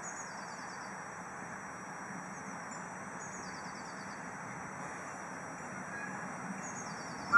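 A songbird repeats a short, high, descending trill three times, about every three seconds, over a steady background rumble.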